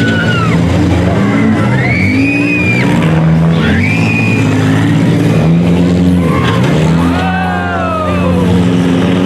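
Several demolition derby cars' engines running and revving at once, their pitches rising and falling against each other, with high rising-and-falling whines over the top.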